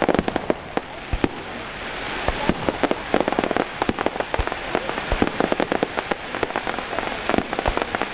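Fireworks display: a dense run of sharp bangs and crackles, many reports a second, over a steady crackling hiss.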